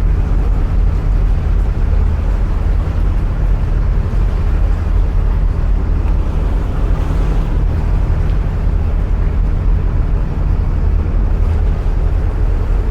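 Narrowboat's diesel engine running steadily at cruising speed, a constant low drone that the enclosed canal tunnel makes loud and close.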